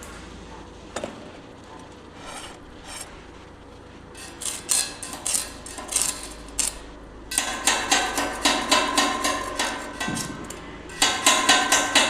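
Hammer striking steel: a few scattered taps, then fast runs of ringing metallic blows from about seven seconds in and again near the end.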